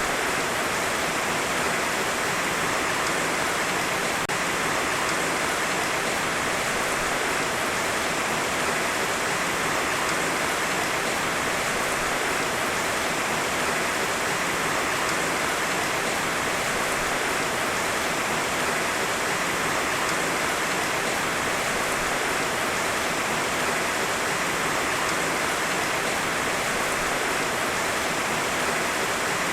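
Heavy rain falling steadily: a dense, even hiss with no separate drops or thunder standing out.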